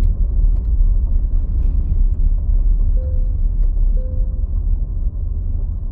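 Car driving: steady low road rumble, with two faint short tones about a second apart midway.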